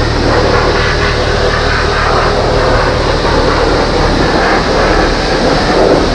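A high-pressure car-wash wand spraying water steadily against a car's body.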